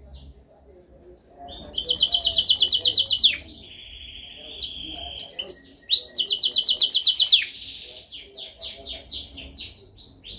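Canary singing. After a short pause come fast rattling trills, then a held whistled note that rises, another fast trill, and a slower run of repeated notes near the end.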